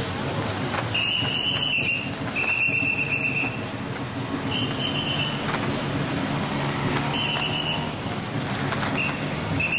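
A whistle blown in about six short blasts, each a steady high note of under a second, spaced irregularly. Under it runs a steady loud din with a low hum.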